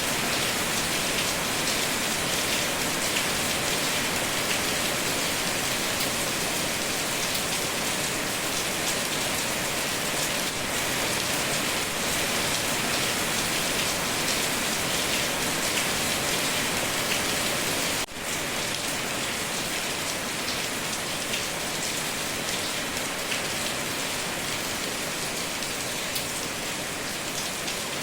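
Steady rain falling, a dense, even hiss of drops. About two-thirds of the way through it dips for a moment, then carries on as before.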